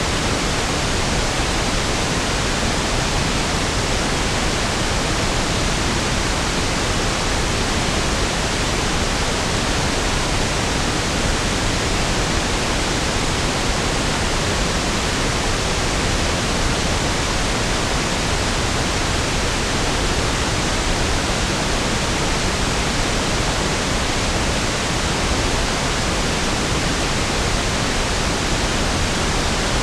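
Steady synthetic pink noise (1/f noise), an even hiss with equal energy per octave, unchanging throughout.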